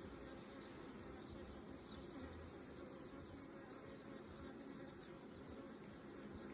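Faint, steady buzzing of a honeybee colony from an opened hive's brood box.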